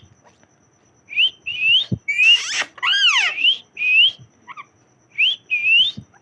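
Pet parrot whistling: a string of short, rising whistle notes repeated every half second or so, broken about two seconds in by a harsher, noisier call and a note that dips and rises.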